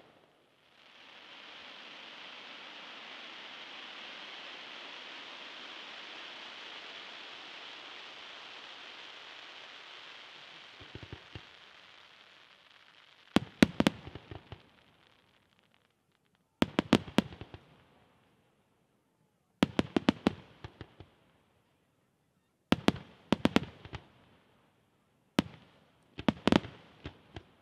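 Aerial fireworks display: a bang at the start, then a steady hiss that fades out over about ten seconds. From about halfway through, salvos of shells burst in quick clusters of sharp reports, one cluster about every three seconds.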